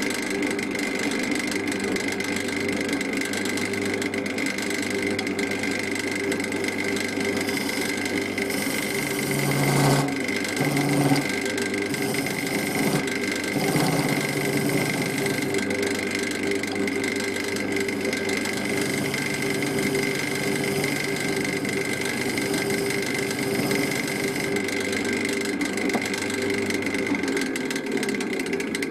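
Wood lathe running steadily at slow speed with a turning tool cutting into a wet sycamore blank, with a few louder, heavier cuts about ten seconds in.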